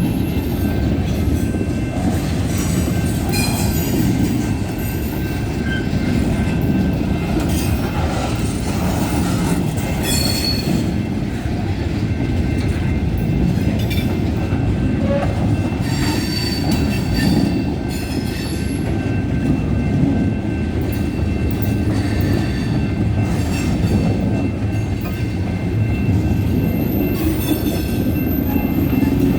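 Freight train cars rolling past with a continuous heavy rumble, and wheels squealing in short high bursts here and there.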